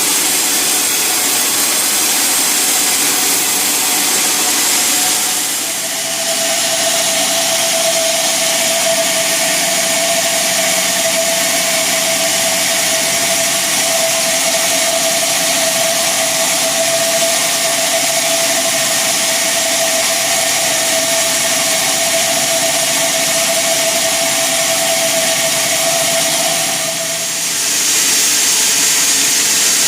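Sawmill saw running steadily, a loud hiss with a high whine over it. About six seconds in the whine drops slightly in pitch and holds there until near the end, when it rises back.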